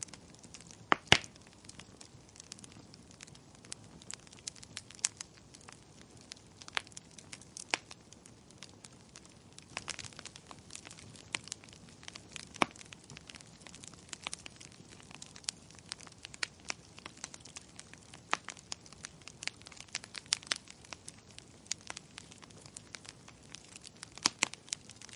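Wood fire in a fireplace crackling: irregular sharp pops and snaps over a soft steady hiss, with the loudest pop about a second in.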